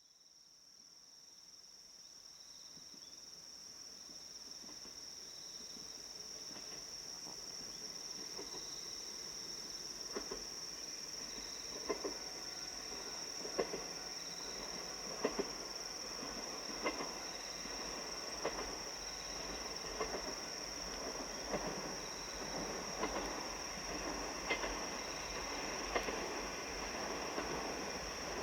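A JR Kyushu KiHa 47 diesel railcar approaching and growing steadily louder. From about ten seconds in its wheels clack over the rail joints about every second and a half. Steady high-pitched insect chirring runs underneath.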